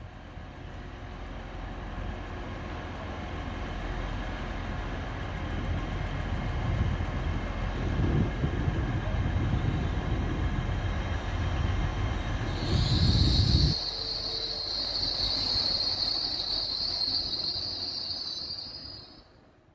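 LNER Azuma high-speed train running in along the platform, its rumble building to a peak past the middle. As it slows, a steady high-pitched squeal sets in about two-thirds of the way through and holds until the sound fades out at the end.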